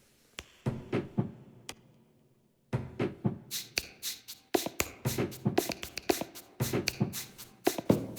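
Percussive rhythm made from a ballet dancer's movement sounds: a few scattered taps, then, from about three seconds in, a quick, steady beat of taps and knocks that grows busier.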